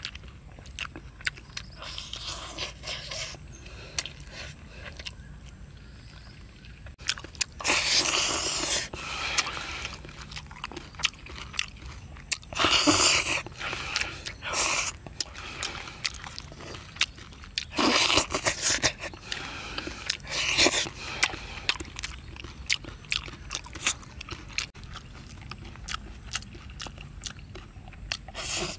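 Close-up eating sounds of a man chewing and biting cooked catfish, with many small mouth clicks and several louder noisy stretches of about a second each.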